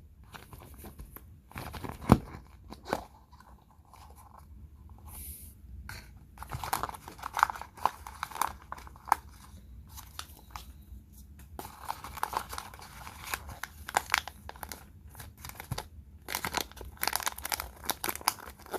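Small plastic toy packaging being handled, crinkled and torn open, with irregular crackles and small clicks and one sharper click about two seconds in.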